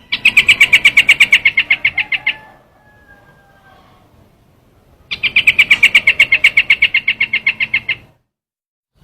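Looped decoy recording of a bird call: two fast trills of evenly repeated sharp notes, about a dozen a second, each lasting two to three seconds, the second starting about five seconds in.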